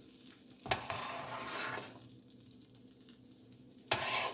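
A spoon knocks against a soup pot twice, about a second in and near the end. A short swishing of liquid being stirred follows the first knock.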